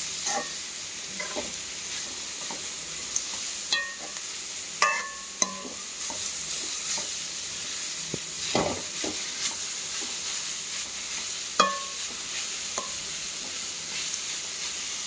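Grated beetroot with onion sizzling in oil in a metal kadai as it is sautéed, stirred with a steel spoon. A steady sizzle runs throughout, with scrapes and sharp ringing clinks of the spoon against the pan every few seconds.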